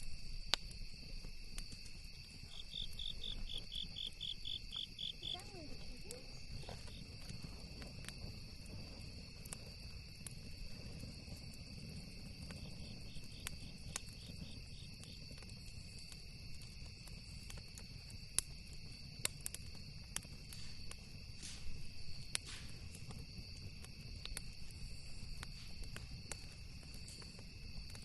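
Campfire crackling with scattered sharp pops, the loudest about eighteen to twenty-two seconds in, over a steady high chirring of insects. A cricket gives two runs of quick chirps, a few seconds in and again about halfway through.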